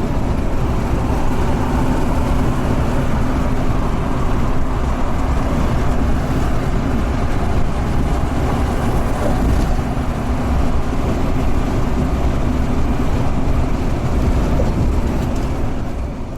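Scania truck under way: a steady run of engine and road noise that begins to fade out near the end.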